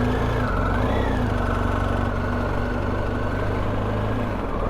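Motorcycle engine running at a steady cruise, its pitch rising slightly and settling back about a second in.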